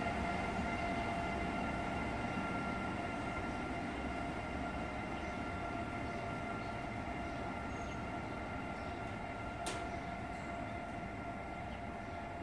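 Renfe AVE high-speed electric train pulling away from the station, a steady electric whine over a low rumble, slowly fading as it draws off. A single sharp click sounds near the end.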